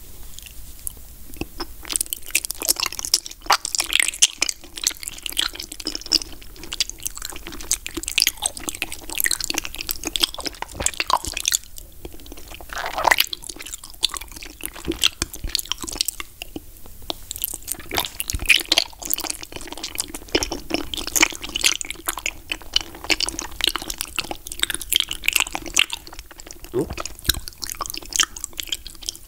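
Peach jelly balls being bitten and chewed close to the microphone: a dense, continuous run of small wet mouth clicks with a few louder bites.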